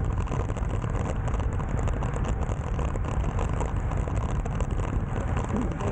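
Steady low rumble of wind and road noise on a moving bicycle's action-camera microphone.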